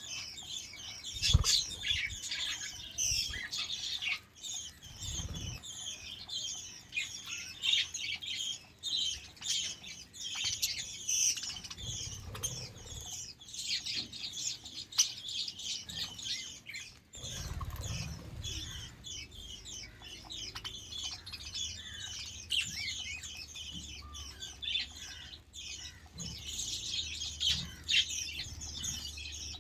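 A flock of budgerigars chirping continuously, many short high chirps overlapping, with a few dull low thumps about a second in, around five seconds in and again after seventeen seconds.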